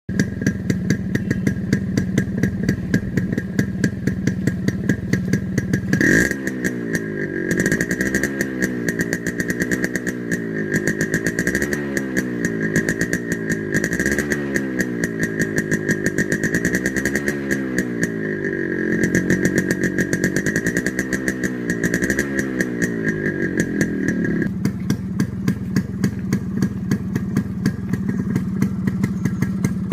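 Yamaha RX100's two-stroke single-cylinder engine idling with a popping exhaust, then revved up and down repeatedly from about six seconds in, roughly once every two seconds. It drops back to a steady idle near the end.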